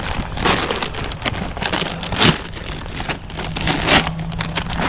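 Irregular rustling and crinkling handling noise, with a sharp knock about two seconds in.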